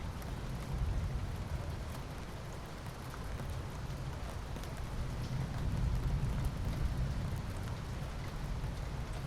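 Steady rain falling, with scattered drop ticks over a low rumble that swells about a second in and again around six seconds.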